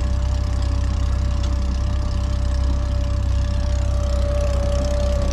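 Boat engine running steadily while motoring away from a dock: a constant low drone with a thin steady whine above it.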